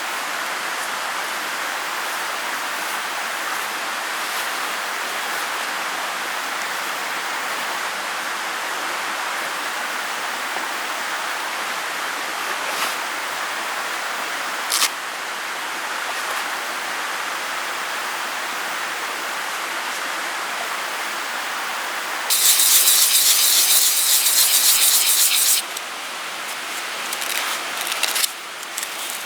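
Steady hiss of rain. Near the end, about three seconds of loud, rasping rubbing strokes cut in over it.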